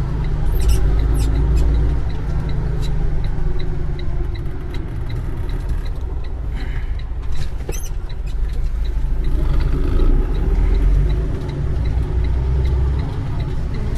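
A motor vehicle running, a steady low rumble throughout, with faint regular ticking above it.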